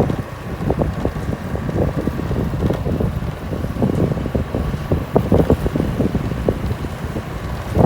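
Wind buffeting the microphone during a motorcycle ride, with a steady low rumble underneath.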